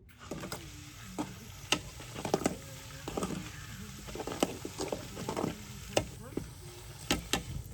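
Diced pork fat frying into cracklings (shkvarky) in a pan, sizzling steadily, while a utensil stirs and scrapes through it with repeated sharp clicks and knocks against the pan.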